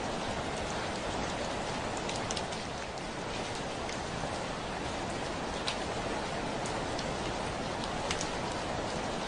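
Steady heavy rain falling against a window, a continuous hiss with scattered sharper ticks of single drops striking.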